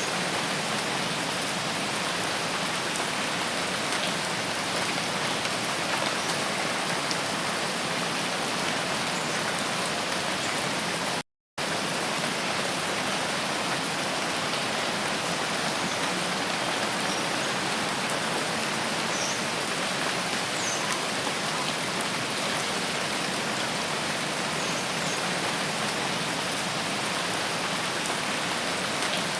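Steady rain falling, an even hiss with faint scattered drop ticks. About eleven seconds in, the sound cuts out completely for a fraction of a second, then resumes unchanged.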